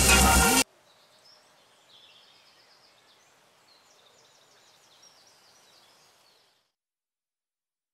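Loud electronic music cuts off abruptly less than a second in. It leaves faint birdsong, short chirps and trills over a light hiss, which stops about six and a half seconds in.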